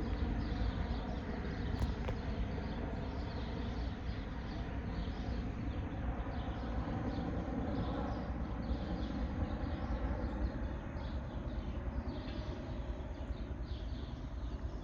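CH-47 Chinook tandem-rotor helicopter flying over, a steady deep rumble of rotors and engines.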